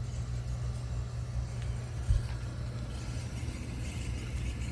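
Air handler running with a steady low hum, with one short knock about two seconds in.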